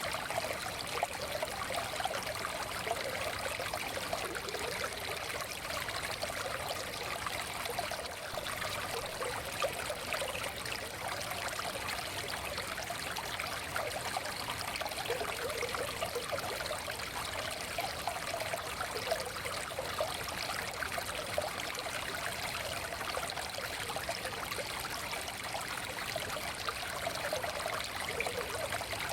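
Forest stream flowing steadily, water burbling and trickling over stones.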